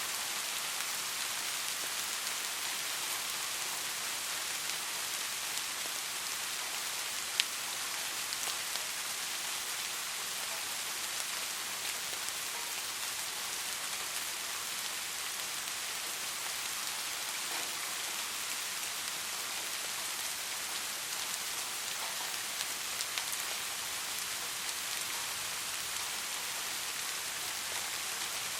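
Steady soft rain, an even hiss of falling drops, with one sharp click about seven seconds in.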